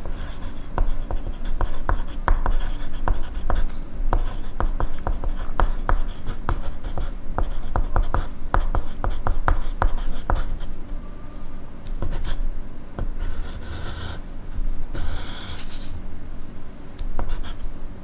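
Pencil writing on paper, with quick scratching strokes packed close together for about ten seconds, then thinning out, with a few longer rubbing sounds in the second half.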